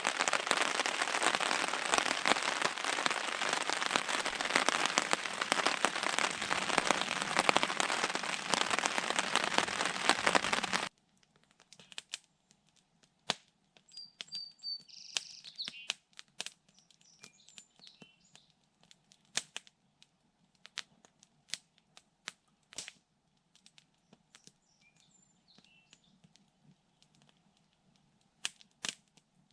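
Steady heavy rain pattering, cutting off suddenly about eleven seconds in. After it, a quiet stretch with scattered sharp clicks and a small bird chirping a few times.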